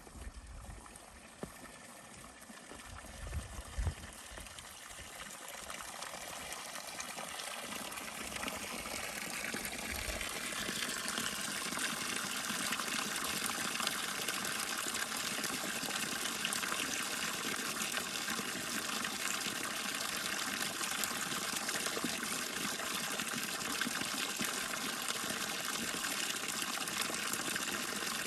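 Running water, rushing steadily, growing louder over the first ten seconds as it comes closer and then holding steady. A few low thumps sound in the first few seconds.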